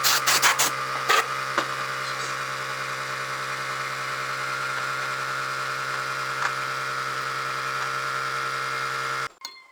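A small electric motor running with a steady buzzing hum, a few clicks in the first second, then switched off suddenly near the end.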